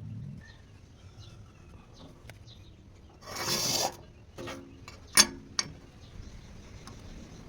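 A short rasping scrape, then three sharp knocks about a second later, the middle knock much the loudest.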